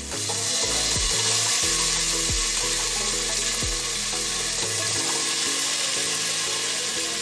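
Water-soaked potato pieces going into hot oil and tomato masala in an open pressure cooker, setting off a loud, steady sizzle.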